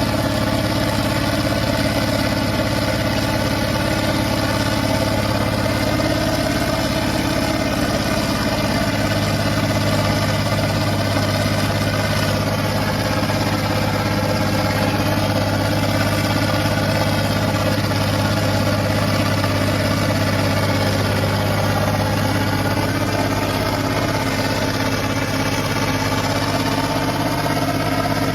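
Massey Ferguson 2725 tractor engine running steadily at constant speed while driving a PTO dynamometer through its power take-off.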